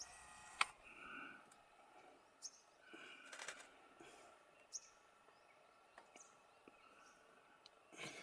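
Near silence outdoors, with a few faint bird calls, two short ones about a second and three seconds in, and some scattered light clicks.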